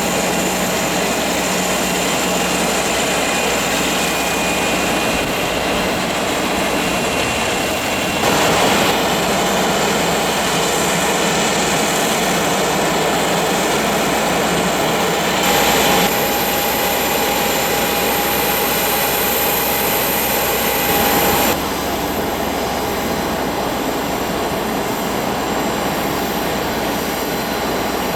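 Business jet turbofan engines running: a steady rushing noise with a high, even whine on top. The sound shifts abruptly three times, about eight, fifteen and twenty-one seconds in, the whine coming and going with each change.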